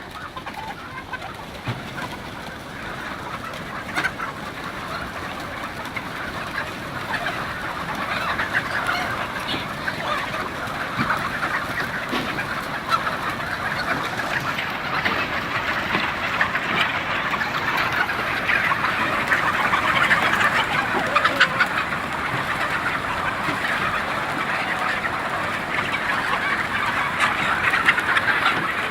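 A large flock of chickens in a poultry house, clucking and calling continuously in a dense chatter that grows louder over the first twenty seconds or so, then holds steady.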